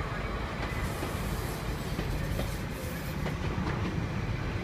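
Great Western Railway Class 800 train moving along the platform: a steady low rumble with a few faint clicks of wheels over rail joints.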